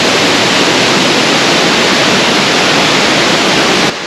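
Mackenzie Falls waterfall rushing, a loud steady roar of falling water close by; it drops suddenly to a quieter rush just before the end.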